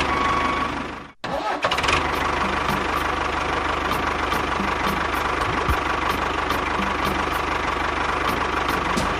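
A small motor, likely the DIY mini tractor's, running steadily with a faint whine. It cuts out about a second in and starts again at once.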